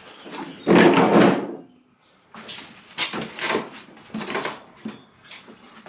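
Handling noise from tools and mower deck parts: a loud scrape about a second in, then a run of short knocks and rattles.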